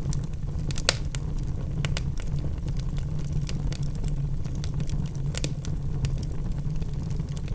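Wood logs burning in a fireplace: a steady low rumble of the flames with frequent sharp crackles and pops, a louder pop about a second in and another a little past the middle.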